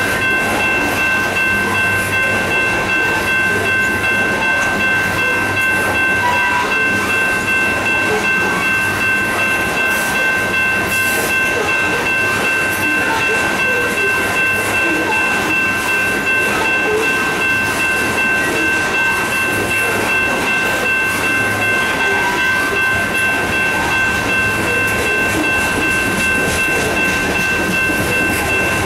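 Coal hopper cars of a unit coal train rolling past: a steady wheel-and-rail rumble with a light regular pulse, and several high steady tones held the whole time.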